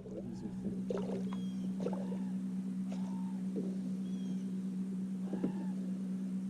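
Birds calling repeatedly, short arched calls about once a second, over the steady low hum of a boat motor.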